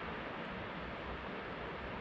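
Water pouring over an erosion-control dam on a mountain river, a steady unbroken rushing.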